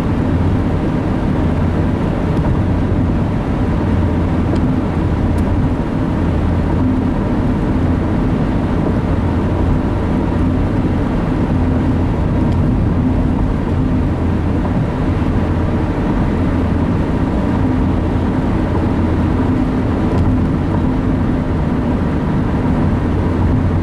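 Steady road and engine noise of a car driving at a constant speed, heard from inside the cabin.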